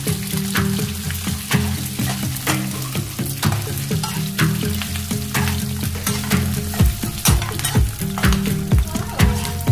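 Pieces of crispy pork belly sizzling in a wok as a metal spatula stirs and turns them, with repeated scrapes and knocks of the spatula against the pan. Background music with a steady beat plays underneath.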